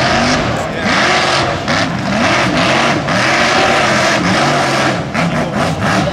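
Mega truck engine revving hard, its pitch rising and falling over and over, over a steady rush of noise.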